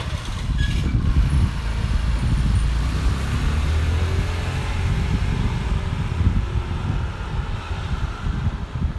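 A motor vehicle passing close by, with a low engine rumble and tyre noise that swell toward the middle and then ease off.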